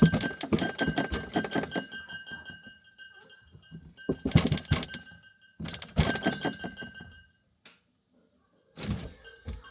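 Rapid clattering and rattling knocks in three bursts, each lasting one to three seconds, with a faint steady high tone under them and two short knocks near the end.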